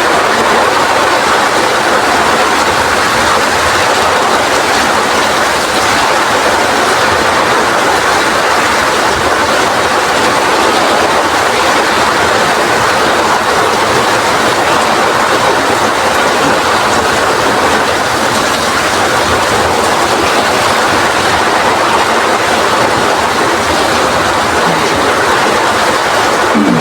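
Heavy rain driven by strong wind, a steady, loud rushing hiss without letup.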